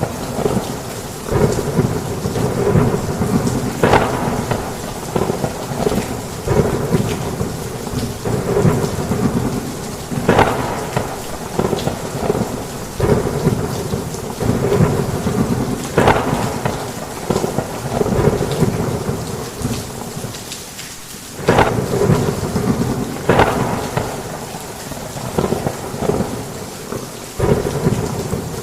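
Heavy rain on a roof in a thunderstorm: a steady downpour with thunder, and sharp louder cracks every second or two. It eases briefly about twenty seconds in, then comes back.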